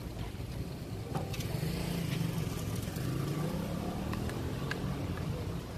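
A car engine running in street traffic, its low hum wavering up and down, over a steady rumble of road and wind noise, with a few light clicks.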